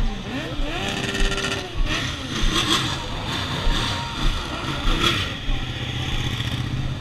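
Motorcycle engines running at a motorcycle meet, one rising in pitch, holding and falling back, with background voices.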